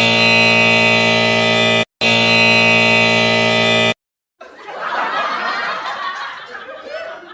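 Two long, steady buzzer blasts of about two seconds each with a brief break between them, followed by a burst of laughter.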